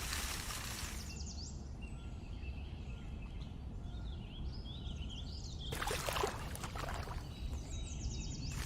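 Outdoor ambience: small birds chirping over a steady low rumble, with spells of rustling noise at the start and again about six seconds in.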